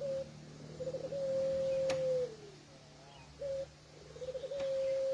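A puter pelung dove (ringed turtle dove) cooing twice. Each coo is a short note, then a rolling trill that runs into one long, drawn-out low note that falls away at the end.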